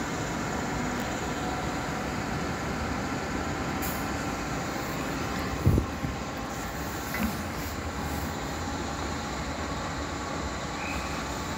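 Steady railway rumble as a London Overground Class 378 electric train approaches in the distance, with a single thump about halfway through and a smaller knock just after.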